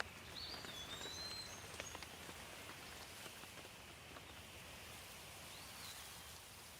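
Light rain falling steadily, with scattered drops ticking close by. A bird gives a few short high chirps in the first two seconds and once more near the end.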